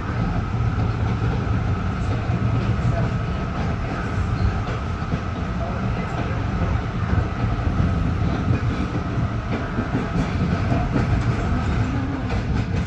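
LIRR M3 electric multiple-unit train running along the track: a steady rumble of wheels on rail with a faint steady whine over it.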